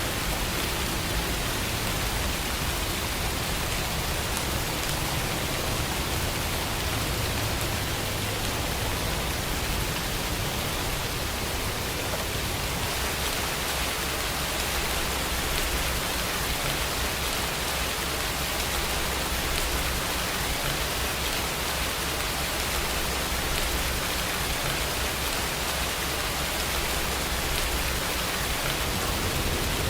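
Steady, even rain hiss with a low rumble underneath.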